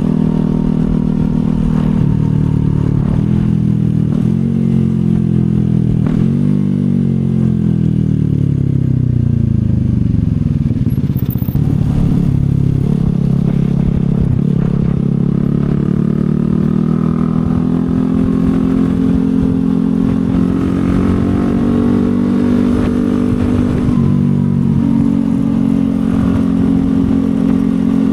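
CFMoto 250SR Lite's single-cylinder engine under way, revving through a few quick gear changes, slowing for a few seconds about a third of the way in, then climbing steadily in pitch and holding a steady cruise.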